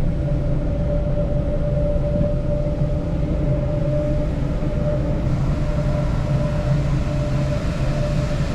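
Steady drive noise of a moving vehicle heard from inside the cabin: a low engine and road rumble with a thin steady whine above it.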